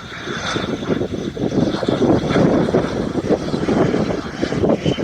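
Private jet's engines whining steadily, heard through heavy wind buffeting the microphone.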